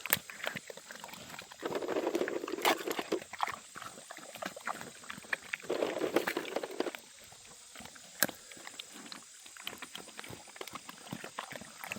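Pigs eating food scraps off the ground: a run of short wet smacks and clicks of chewing, with low grunting about two seconds and six seconds in.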